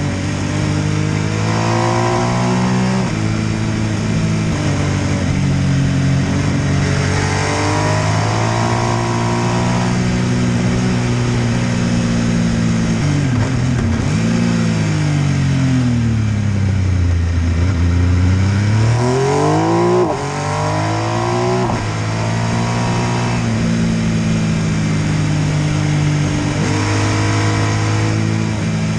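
MV Agusta F3 800's three-cylinder engine pulling through the gears, its pitch climbing and dropping with each gear change. About halfway through the revs fall away for several seconds, then climb steeply again, with a short drop in loudness at a shift.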